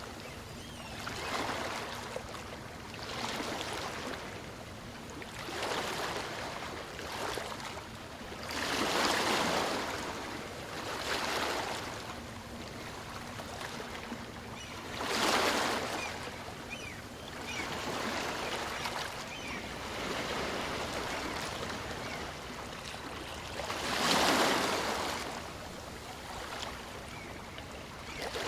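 Small waves of a calm sea washing up and drawing back on a beach, a hissing swash that swells and fades every few seconds, with stronger surges about a third, half and most of the way through.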